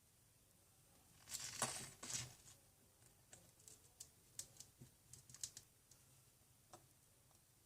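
Small hand tools clicking and scraping on a phone's internal parts: a short scraping rustle about a second in, then a run of irregular light clicks.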